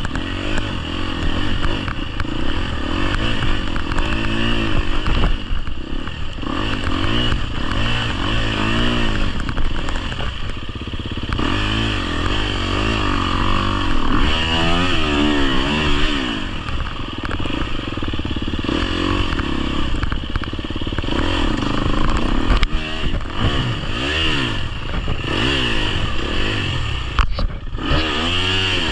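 GasGas EX250F's single-cylinder 250cc four-stroke engine revving up and falling back again and again as the dirt bike is ridden off-road, with occasional knocks.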